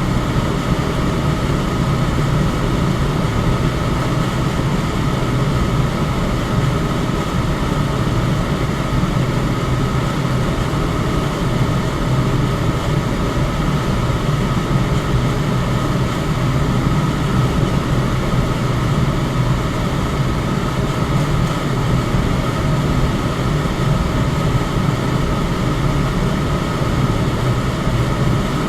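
Electric fan running steadily: an even rush of air with a low hum.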